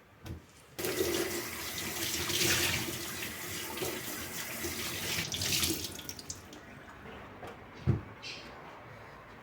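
Kitchen tap running water into the sink: it starts suddenly about a second in and stops about six seconds in. A short dull thump follows near the end.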